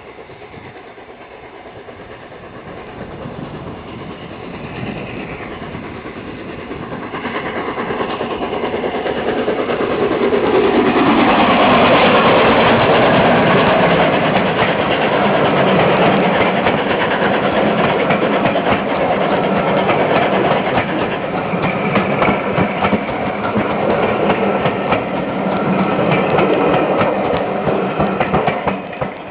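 Three-cylinder Peppercorn A1 Pacific steam locomotive 60163 Tornado approaching with its train, growing louder to a peak about twelve seconds in with a falling pitch as it comes by. It stays loud as the train rolls past with wheel clatter, then drops away at the very end.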